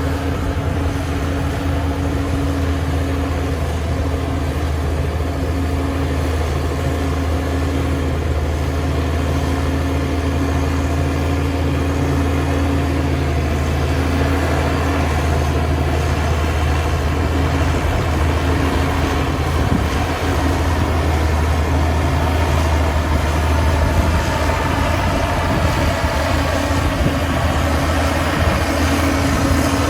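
Heavy diesel engine of earthmoving machinery running steadily, a deep, even hum with no change in speed.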